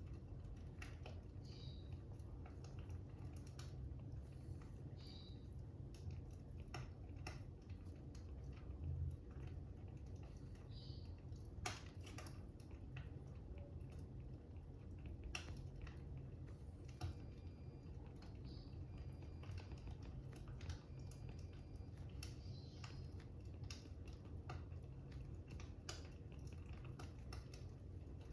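Fire crackling faintly, with irregular sharp pops and snaps over a steady low rumble.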